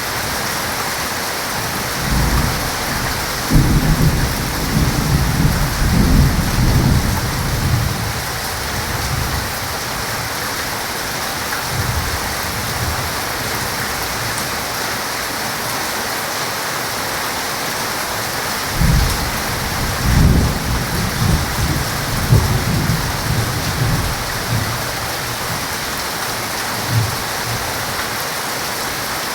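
Heavy rain falling steadily, with two long rolls of thunder: the first starting about two seconds in, the second about nineteen seconds in, each rumbling low for several seconds.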